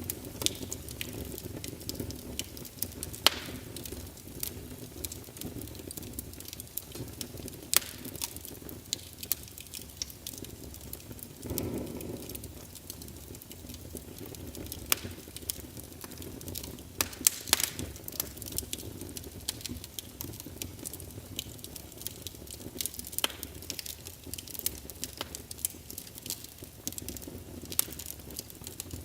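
Fire burning in a fireplace: a steady low rumble with frequent sharp crackles and pops, and a brief swell in the rumble about twelve seconds in.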